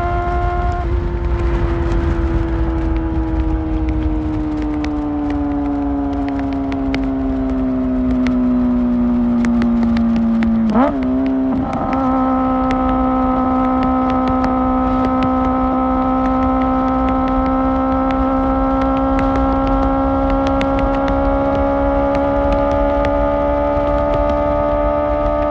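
Kawasaki ZX-4R inline-four with an Akrapovic exhaust running at steady riding revs, its note sinking slowly for about ten seconds. About eleven seconds in a quick gear shift jumps it to higher revs, after which it holds a steady, slightly rising note.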